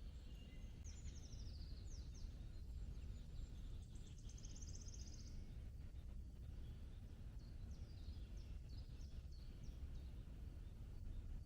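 Forest birds singing: short high descending notes, a fast high trill a few seconds in, and more scattered chirps near the end, over a steady low rumble.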